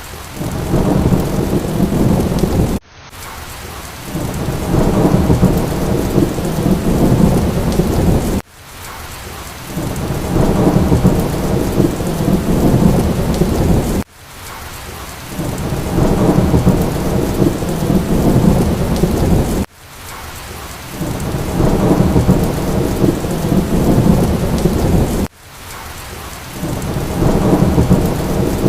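Thunderstorm sound with heavy rain and rolling thunder rumble, a short stretch of about five and a half seconds repeated over and over: each repeat cuts off suddenly and starts again quieter before swelling back up.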